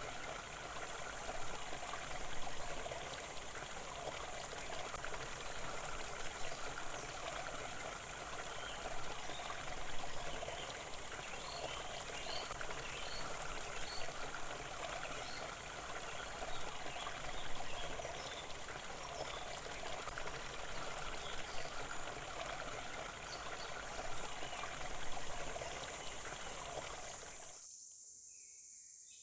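Steady babbling of a running stream, with a few faint chirps over it; the water sound cuts off suddenly near the end, leaving only faint bird chirps.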